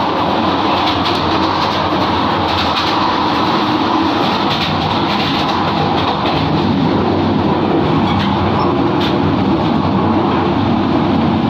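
Passenger train running along the line, heard from inside a coach: a steady rumble of wheels on rail with occasional faint clicks over the rail joints.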